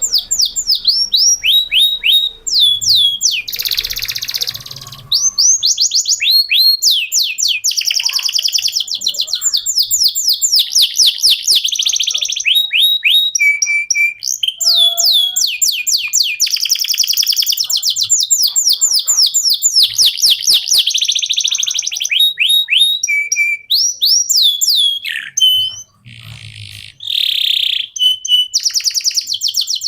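Male domestic canary singing a long, almost unbroken song of fast rolling trills and rapidly repeated high notes, with a short pause near the end.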